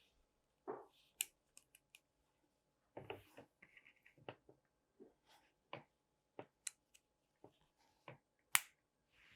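Small plastic LEGO bricks being handled and pressed together: a scattered run of short, sharp clicks and light taps, the loudest about three-quarters of the way through.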